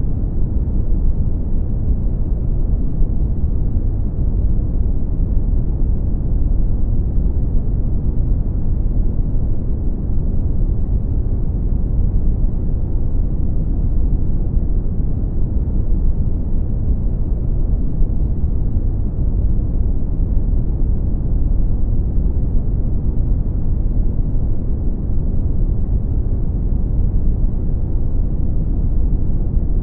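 Brown noise: steady, deep rumbling noise, strongest in the bass and fading toward the treble, with no change in level.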